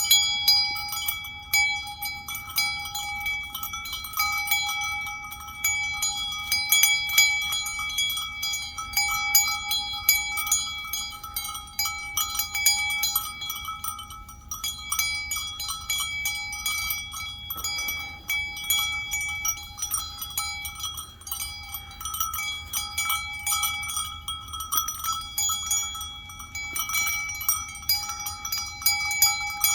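Metal livestock bell clanking over and over in quick, irregular strokes, its ringing tones carrying on with hardly a break.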